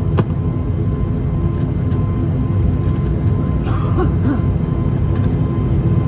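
Steady low drone inside the cabin of an ATR 72-500 turboprop standing on the ground after landing, with a faint steady whine on top. A single click comes just after the start.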